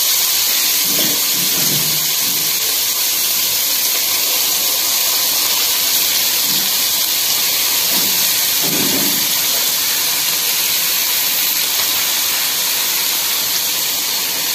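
Vegetables sizzling in hot oil in a metal kadai, a steady hiss. About eight to nine seconds in, a brief dull sound as boiled noodles are dropped into the pan.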